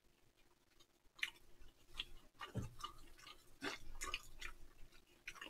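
Faint close-up chewing of a mini hamburger on a soft dinner-roll bun: irregular small wet clicks and soft crunches of the mouth working the food.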